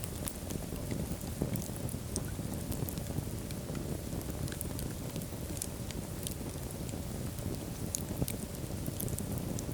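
Wood fire burning in a fireplace: a steady low rush of flames with frequent small, sharp crackles and pops scattered throughout.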